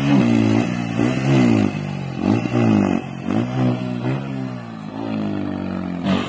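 Bajaj Pulsar N160's single-cylinder engine revving up and down repeatedly, its pitch rising and falling about once a second as the bike is ridden.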